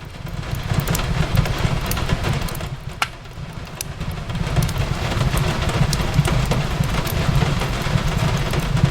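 Fireplace crackling, with scattered sharp pops, over a steady rain hiss and a deep low rumble. The sound dips briefly about three seconds in, then swells again.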